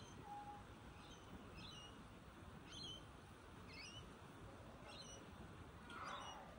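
Faint, short bird chirps, repeating about once a second, over low background hiss.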